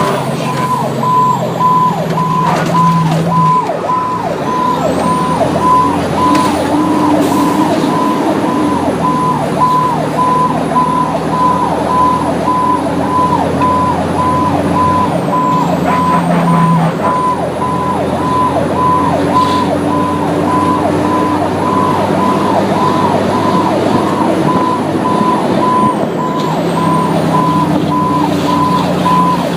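Fire apparatus running, its engine note shifting now and then, with an evenly repeating electronic beep throughout.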